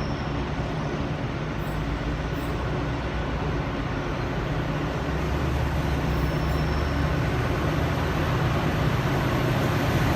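Freight train passing through the station behind a G-class diesel-electric locomotive: a steady diesel engine drone with low hum under the rumble of the wheels and wagons, growing slightly louder.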